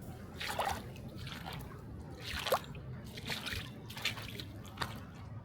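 Footsteps on wet sand at an even walking pace, a short crunch about every 0.8 seconds.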